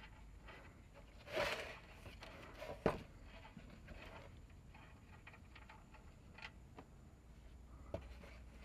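Quiet handling under the car at the oil pan drain: a short scraping rush about a second and a half in, a sharp click near three seconds, then a few faint ticks.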